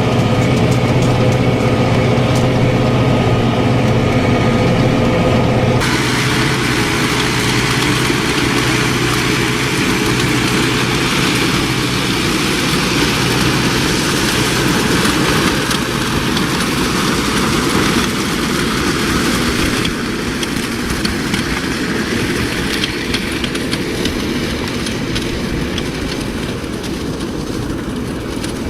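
Farm tractor running while spreading muck. A steady engine hum for about the first six seconds, then a rougher, noisier sound of tractor and spreader working for the rest.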